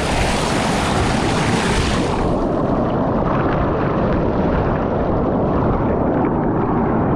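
Rushing water of a jungle river and waterfall, loud and steady. From about two seconds in it turns duller, losing its hiss.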